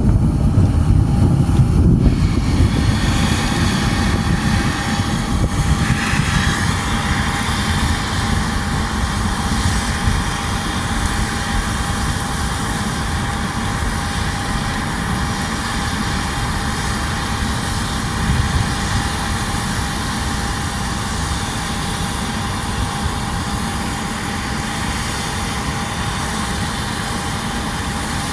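Jet aircraft engines running with a steady whine over a low rumble, the sound easing slowly over the stretch.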